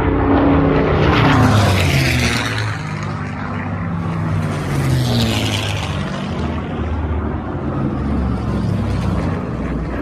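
Aircraft engines droning as planes fly past, their pitch sliding down as each one goes by.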